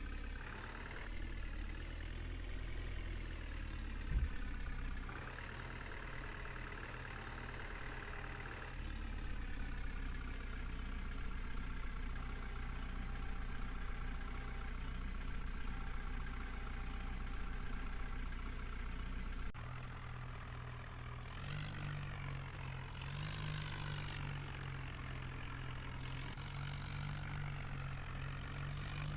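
Diesel engine of a JCB backhoe loader running while it works, rising in level for a few seconds early on, with a single knock about four seconds in. In the last third the engine note changes and several short rushes of noise come through.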